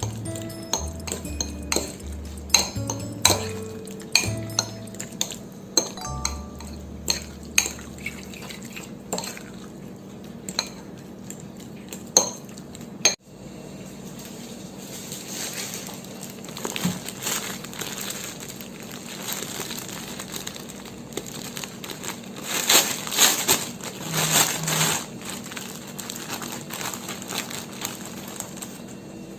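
Metal kitchen utensils clinking and scraping against dishes and cookware while food is prepared. Sharp clinks come through the first half, and there is a stretch of louder scraping a little over twenty seconds in.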